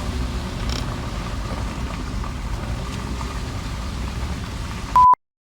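Steady low road and engine rumble inside the cabin of a Toyota 4Runner under way. About five seconds in, a short pure beep sounds and the sound cuts off.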